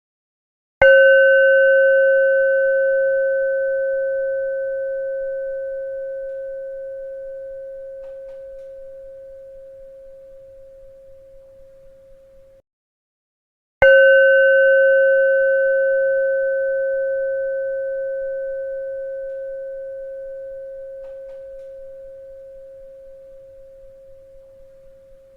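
A bell struck twice, about twelve seconds apart. Each strike rings with a clear mid-pitched tone and higher overtones, fading slowly with a slight pulsing wobble, then cuts off abruptly just before the next strike.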